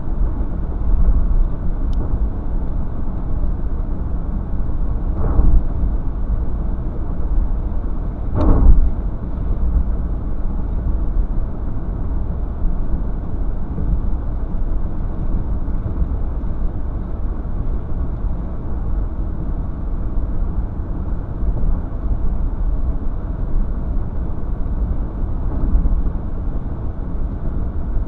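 Steady road and engine noise of a car driving, heard from inside the cabin, with two brief louder swells about five and eight seconds in.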